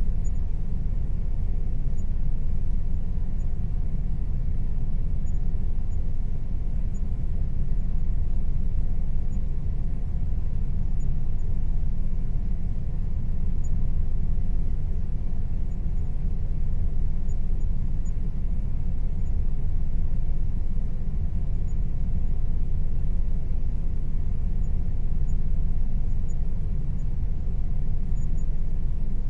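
Air conditioner running steadily, a deep even rumble with a faint constant hum above it.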